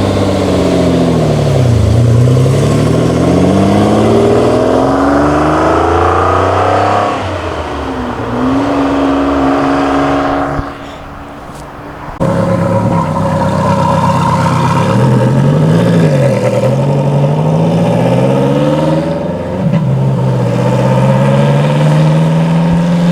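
Car engines accelerating and revving, the pitch climbing for several seconds and dropping sharply about seven seconds in, as at a gear change. After a brief quieter stretch, an engine runs on steadily with small rises and falls in pitch.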